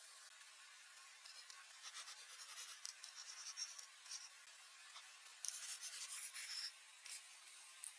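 Light scraping and rubbing strokes: a run of short scrapes, then a louder stretch of scraping about two-thirds through.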